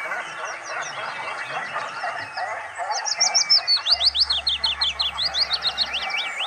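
Birds chirping: scattered short chirps, then a fast, dense run of quick rising chirps from about halfway in, over a steady background hiss.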